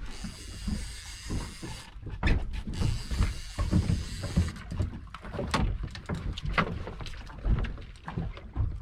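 Irregular knocks, clicks and thumps of handling aboard a small fishing boat while a small tope is being reeled in, with a hiss through the first two seconds.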